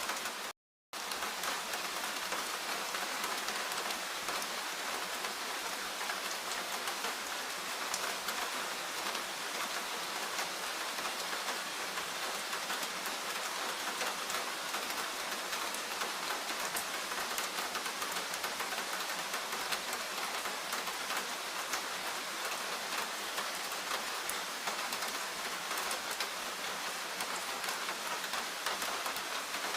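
Steady rain falling, a dense even hiss of drops with scattered individual drop ticks. It cuts to silence for a moment just under a second in, then resumes unchanged.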